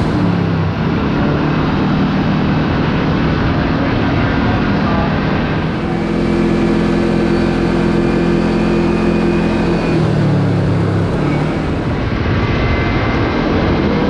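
Side-by-side UTV engine running under way, its pitch dropping and rising a few times as the throttle changes, over a steady rushing noise.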